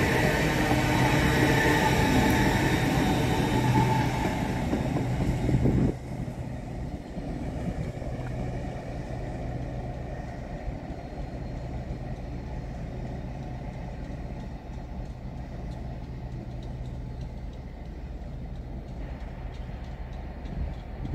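LNER Azuma (Hitachi 800-series) train passing close by, with a loud rumble and hiss of wheels and running gear. About six seconds in the sound drops suddenly to a quieter, steady low hum of a train further off.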